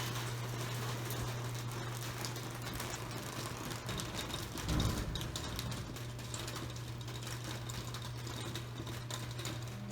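Rain pattering on a pergola roof, a dense, steady run of small drop ticks over a constant low hum, with a brief low thud about halfway through.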